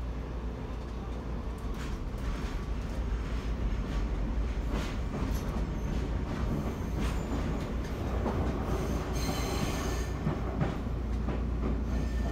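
Cabin noise of an ex-Seibu New Red Arrow electric train car at speed: a steady low rumble with scattered rail-joint clicks, growing louder over the first few seconds, and a brief high hiss about three-quarters of the way through. The car runs on old bogies taken from the original Red Arrow, which the uploader says make its ride especially loud.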